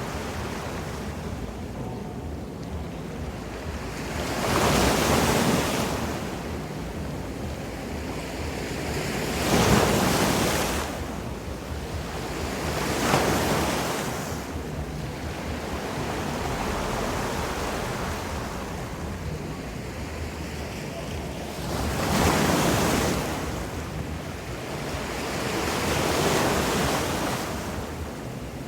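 Ocean surf washing ashore: five waves swell up and fade over the stretch, over a steady rush of water, with some wind on the microphone.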